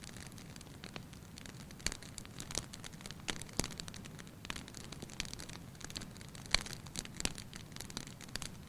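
Fireplace fire crackling, with irregular sharp pops over a low steady hiss, one louder pop about three-quarters of the way through.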